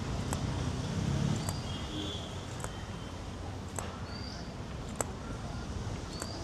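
Street ambience while walking: footsteps click about once a second, short high bird chirps come now and then, and a faint murmur of voices rises about a second in.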